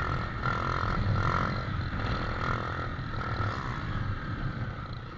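Motorcycle engine revving in repeated surges, growing fainter as it moves away.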